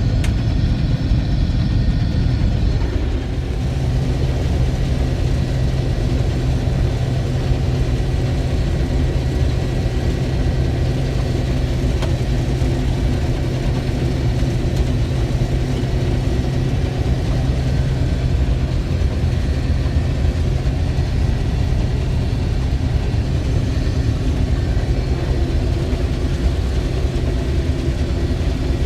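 Case IH 1660 combine running steadily while harvesting soybeans: a constant diesel engine hum with the drone of the threshing machinery, with a slight change in the sound about three seconds in.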